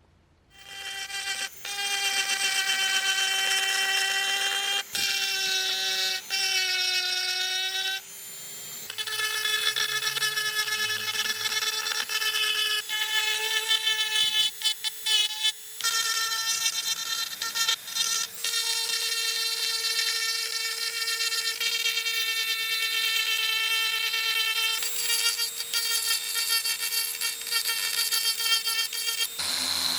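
Small high-speed power tool running with a steady high whine, its pitch shifting a few times and dipping briefly now and then, as it works on cracked motorcycle plastic.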